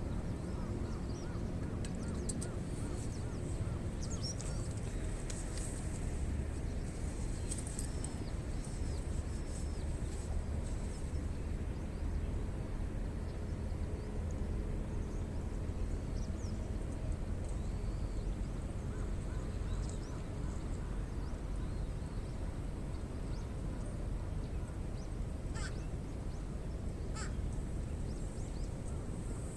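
Birds calling in short chirps and caws over a steady low rumble, with two sharper calls near the end.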